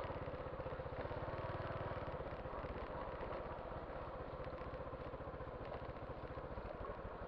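Motorcycle engine running with a steady, rapid putter, slowly growing quieter.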